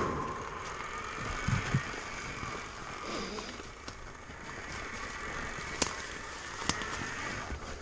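KTM Freeride electric dirt bike riding over rocks and roots: a faint electric-motor whine rising and falling with the throttle, with knocks and clacks from the tyres and chassis hitting the rocks, two sharp ones near the end.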